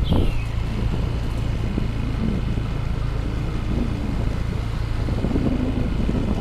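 Motor vehicle engine running steadily with a low hum, under road noise.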